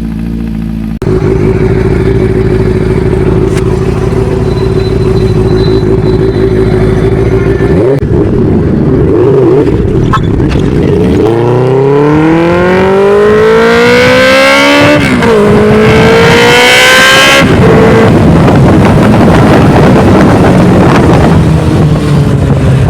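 Superbike engines running loud and steady, then one bike accelerates hard. Its pitch rises, drops once at an upshift about 15 seconds in, and climbs again before cutting off abruptly, leaving a mix of engine noise.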